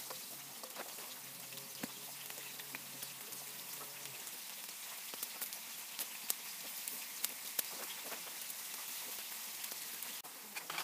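Sausages and potato pieces sizzling in hot fat on a tanjiraca, a steel disc griddle over a wood fire: a steady hiss with scattered sharp pops of spitting fat.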